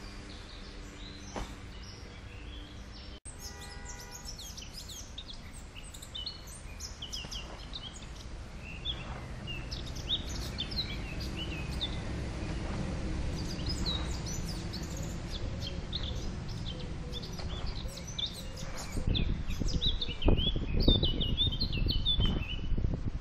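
Small birds chirping and singing in quick, repeated short calls over a steady outdoor rumble, with a few louder low thumps and rustling near the end.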